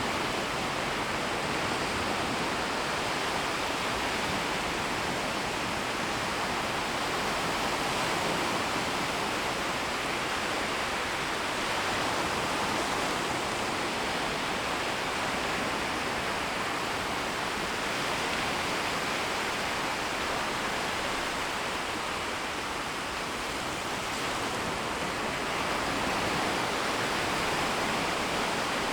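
Small, shallow waves washing in and out along a shoreline: a steady rush of water that swells slightly a few times.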